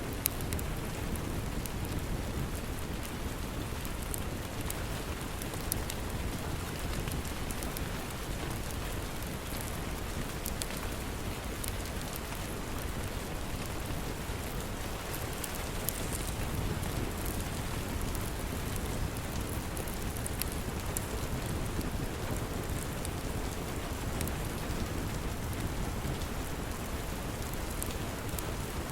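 Steady rain on a surface with a low rumble underneath, and faint scattered crackles from a log fire.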